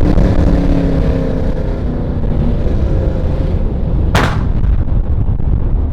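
Camaro V8 exhaust with the revs falling away, then one loud, sharp exhaust bang like a gunshot about four seconds in.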